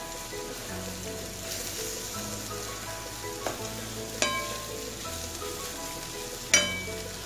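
Sliced ivy gourd and onion sizzling as they fry in oil in a metal kadai, stirred with a wooden spatula. The spatula clacks against the pan three times, the loudest about six and a half seconds in.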